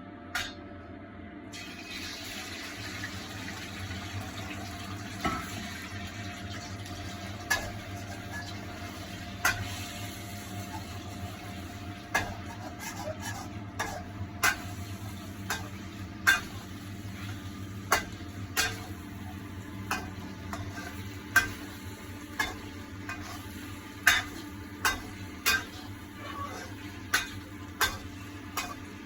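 Marinated chicken pieces sizzling in hot oil in a wok, the sizzle starting about a second and a half in. A spatula knocks and clinks against the wok every one to two seconds as the chicken is stir-fried.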